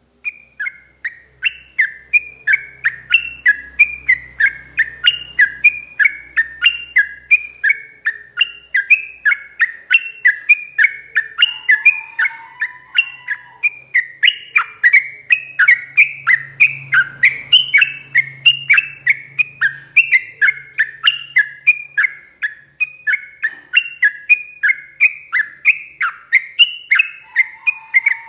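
Sooty-headed bulbul (trucuk) singing a long, unbroken run of rapid repeated notes, each sliding down in pitch, about two to three a second.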